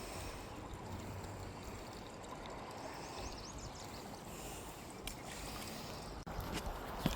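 Creek water flowing and trickling, a steady rushing noise.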